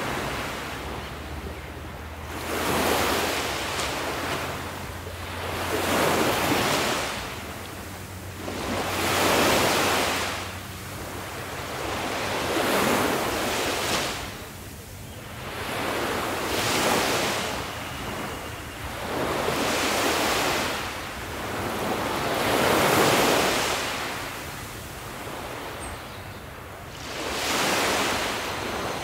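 Ocean waves washing and breaking. The sound swells and eases in a regular rhythm every few seconds.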